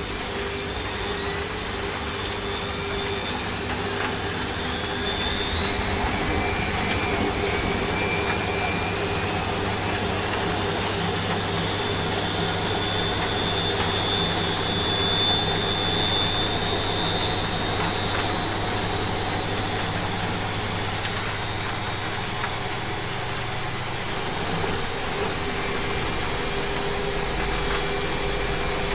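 Washing machine running, its motor whine climbing slowly in pitch as the drum speeds up, over a steady hiss of rain. The low hum shifts near the end.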